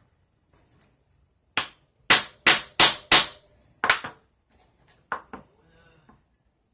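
A run of sharp, separate taps: a first one about a second and a half in, then four loud ones in quick succession, then a few more and softer ones toward the end.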